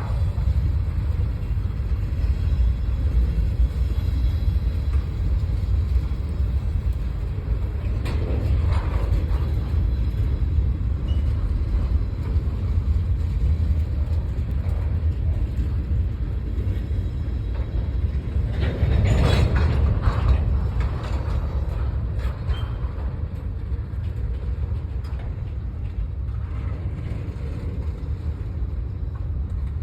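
A train rolling past: a steady low rumble, with two brief louder swells about eight and nineteen seconds in, easing slightly toward the end.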